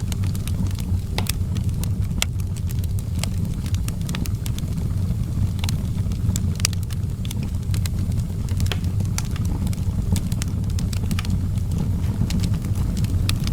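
Outdoor wood fire crackling: frequent sharp, irregular pops and snaps over a steady low rumble.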